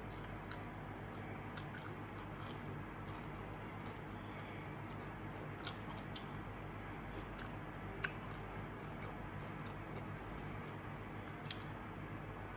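A person chewing and crunching mouthfuls of nam tok kho mu, a Thai grilled pork neck salad, with many small scattered mouth clicks and three sharper clicks, over a steady low hum.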